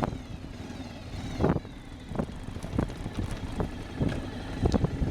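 Street motorcycle riding along a gravel and sand track, with wind on the microphone and several short thumps at irregular spacing.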